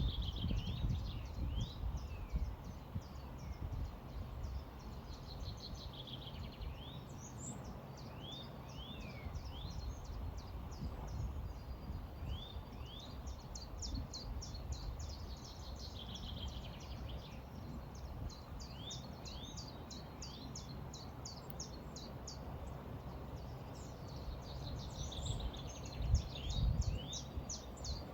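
Several birds singing and calling, with rapid chirping trills and short sliding whistles, over the steady low rush of a flowing river.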